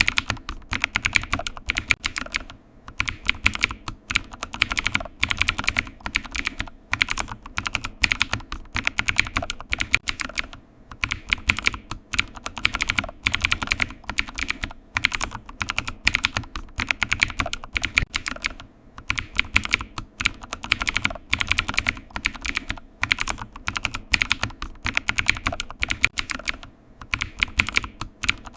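Typing on a computer keyboard: rapid runs of key clicks broken by short pauses.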